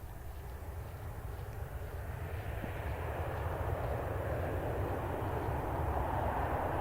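Engines of a Fuji Dream Airlines Embraer regional jet, a steady jet rumble growing gradually louder as the aircraft nears.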